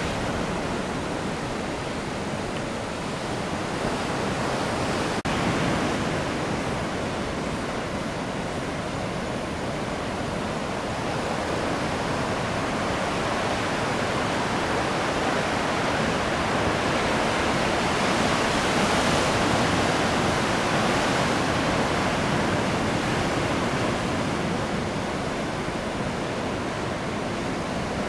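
Heavy surf from a typhoon swell: a steady rush of breaking waves, growing a little louder about two-thirds of the way through.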